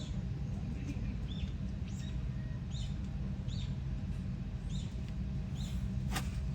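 A small bird chirping over and over, short high chirps roughly once a second, above a steady low background rumble. A single sharp click comes near the end.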